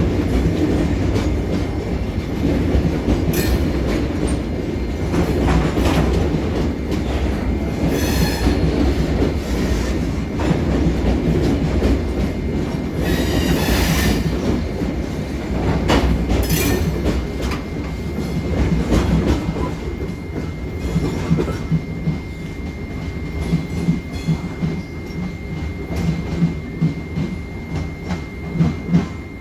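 A short ballast train of freight cars rolling past with a steady low rumble. There are a few brief high wheel squeals, and the clickety-clack of wheels over rail joints stands out near the end.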